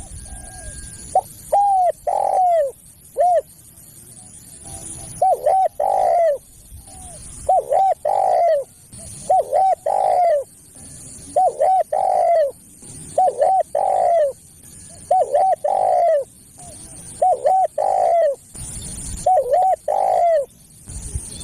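Spotted dove cooing over and over, about one phrase every two seconds. Each phrase is two or three short coos followed by a longer coo that bends down in pitch.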